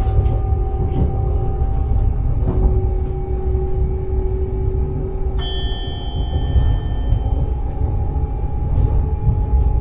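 Steady low rumble of a train running, heard from the driver's cab, overlaid by sustained steady tones that change pitch about halfway through.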